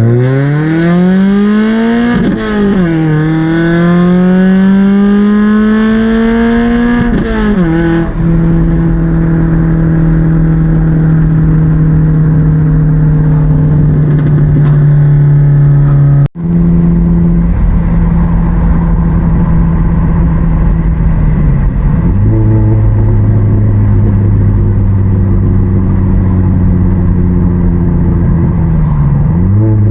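2006 Chevy HHR's 2.4L Ecotec four-cylinder with long-tube header, catless downpipe and Cherry Bomb chamber muffler, under hard acceleration: the exhaust note climbs, dips at a gear change about two seconds in, and climbs again. It then settles to a steady cruise. After a sudden cut about halfway, the revs drop lower, and they rise again right at the end.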